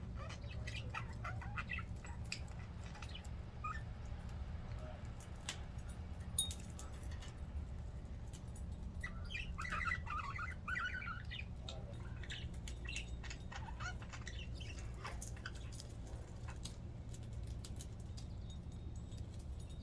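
A flock of pet budgerigars chirping and chattering in scattered short calls, with a denser flurry of warbling about ten seconds in, over a steady low hum.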